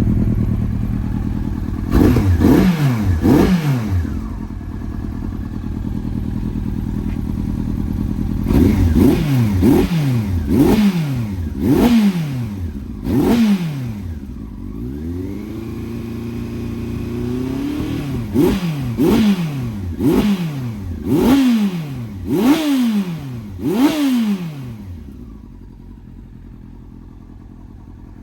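2000 Yamaha R1's inline-four engine, breathing through stock headers and an aftermarket Micron slip-on exhaust, being revved from idle in quick sharp throttle blips, in three bursts of several blips each, with one longer hold at raised revs in the middle. The engine sound drops much quieter about three seconds before the end.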